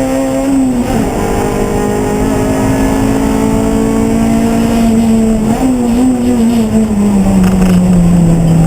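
Race car engine running under load, its pitch holding with a brief break about a second in and another past the middle, then falling slowly.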